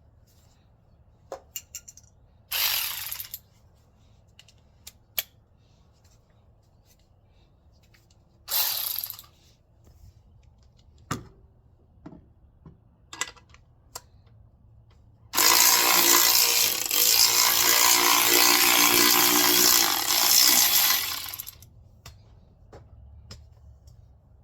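A power tool runs twice briefly and then for about six seconds near the end, as a bolt is being taken out in an engine bay. Scattered light clicks and taps of tools on metal fall in between.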